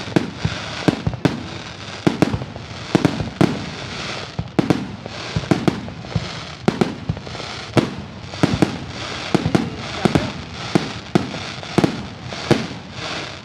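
Aerial fireworks display: a rapid, irregular string of sharp bangs, about two a second, with crackling and echo between them.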